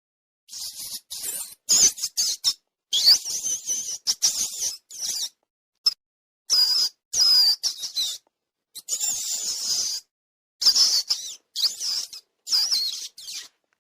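High-pitched squeaking calls from a small animal, coming in quick bunches with warbling, gliding pitch and cutting in and out abruptly.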